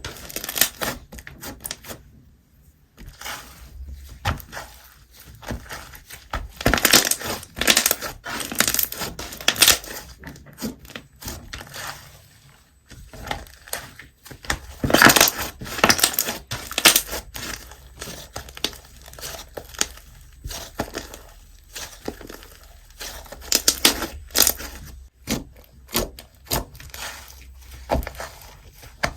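Slime being squeezed and pressed by hand, giving bursts of dense crackling clicks every few seconds with quieter squishing between.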